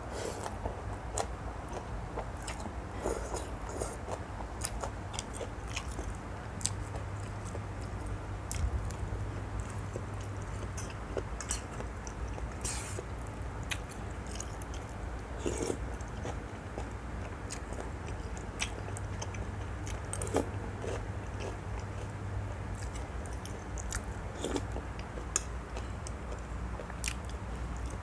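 A person eating pork noodle soup close to the microphone: chewing, with scattered short wet smacks and clicks, over a steady low hum.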